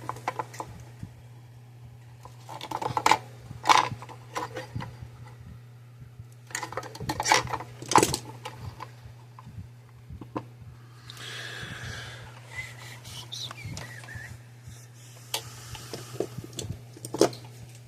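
Wire strippers clicking and snapping in short bursts as the insulation is stripped off wire ends, with small tool-handling clatter. A soft scraping hiss runs for a few seconds past the middle, and a steady low electrical hum sits underneath.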